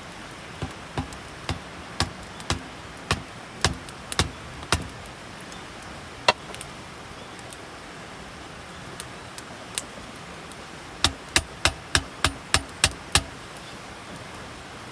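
Sharp knocks in two runs: about nine strikes roughly half a second apart, a single strike, then about eight quicker strikes near the end, over a steady hiss.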